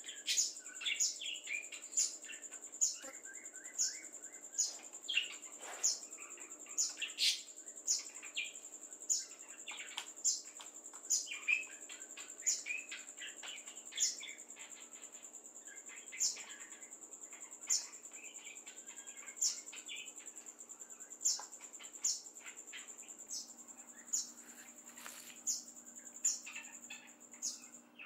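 Bird chirping over and over: sharp, falling chip notes about once or twice a second, with fainter warbling bird song under them. A steady high-pitched whine like an insect's runs throughout.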